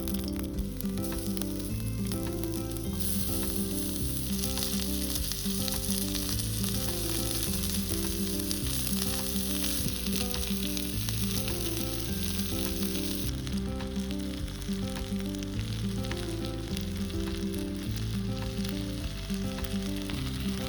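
Instrumental background music over food sizzling as it cooks on a wood fire pit. The sizzling hiss is strongest from about three seconds in until about thirteen seconds in.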